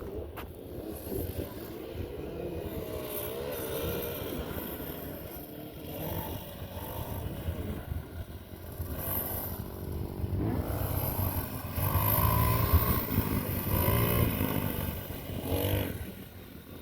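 Dirt bike engines revving, their pitch rising and falling with the throttle. They grow loudest for a few seconds about twelve seconds in, as a bike comes close.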